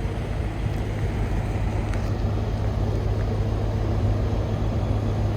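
Commercial truck's engine running with a steady low hum as the truck and trailer reverse slowly.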